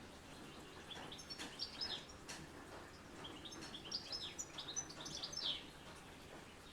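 A songbird singing two quick phrases of high chirping notes, some sliding downward, the first about a second in and the second from about three seconds, over a faint patter of rain.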